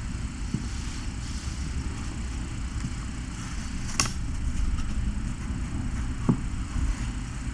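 Domestic cat purring steadily while being petted, a continuous low rumble, with a couple of faint clicks about four and six seconds in.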